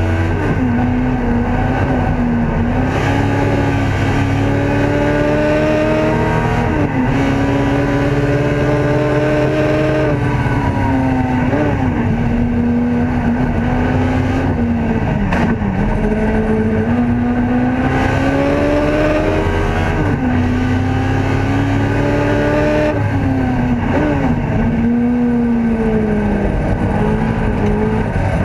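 Ford Escort race car's engine heard from inside the cockpit at racing speed, its revs climbing through each gear and dropping sharply at each change, every few seconds. Several quick dips and spikes in pitch where it changes down for corners.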